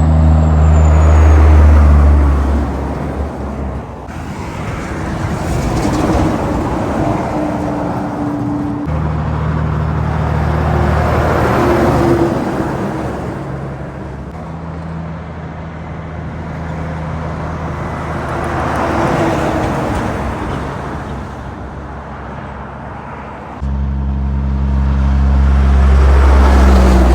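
Highway traffic passing one vehicle after another, about five pass-bys, each swelling and fading. Under them runs a low, steady engine drone that starts and stops abruptly several times.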